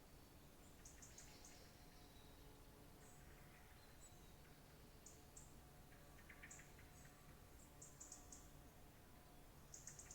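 Faint birdsong: short runs of quick, very high chirps every second or two, with a lower run of chirps about six seconds in, over a steady low background hum.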